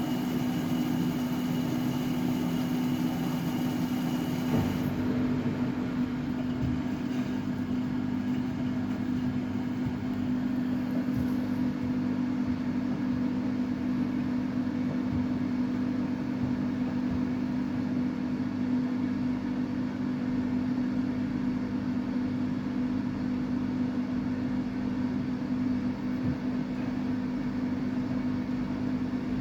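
Samsung WF806U4SAGD front-loading washing machine running a 95 °C cotton drum-cleaning cycle, a steady motor hum. A faint high whine stops about five seconds in.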